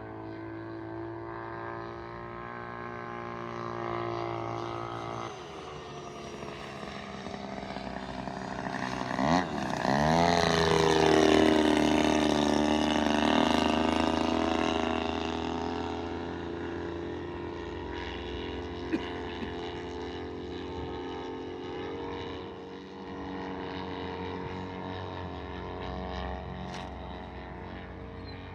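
Radio-controlled model airplane's engine droning as it flies, with a quick swoop in pitch as it passes close about nine seconds in. It is loudest just after the pass and slowly fades afterwards.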